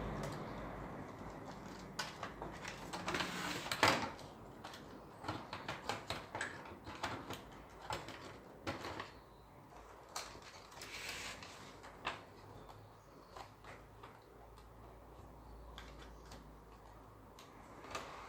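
Irregular light clicks and knocks of small hard objects being handled during bench repair work, the loudest about four seconds in.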